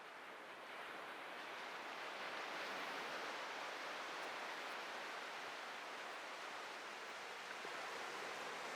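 Atlantic ocean surf breaking and washing onto a beach, a steady rushing noise that swells over the first couple of seconds and then holds.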